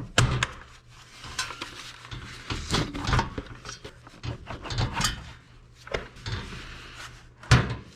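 Scattered metallic clinks, clicks and knocks of hand work on a skid steer's air filter housing, with a sharper knock near the end.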